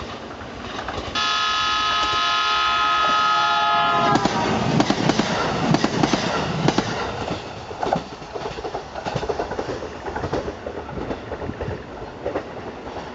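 JR East E131 series electric train sounding one horn blast of about three seconds, a chord of several tones that sags in pitch as it cuts off; it is the warning for an unguarded level crossing at a whistle post. The train then passes close by, its wheels clacking over rail joints, and the noise dies away.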